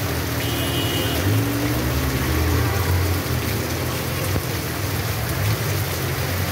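Heavy rain pouring onto a street and nearby surfaces: a steady, dense hiss over a low rumble.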